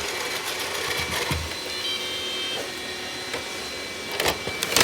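Robot vacuum running steadily, with a few sharp knocks near the end.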